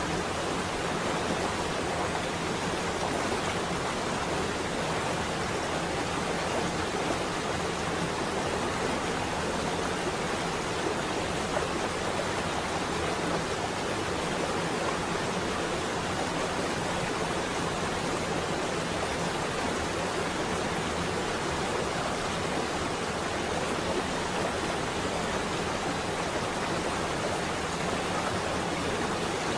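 Steady rain on a window, an even hiss with no single drops or thunder standing out.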